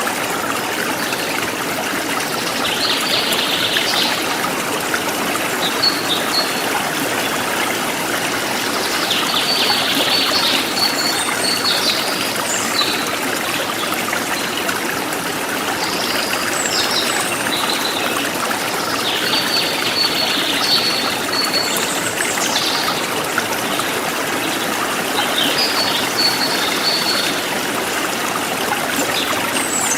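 A forest stream flowing steadily. Over it, birds chirp in short clusters of high notes every few seconds.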